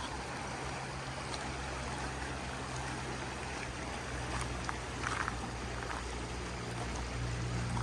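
Steady rush of flowing water, with a few faint small clicks about four and five seconds in.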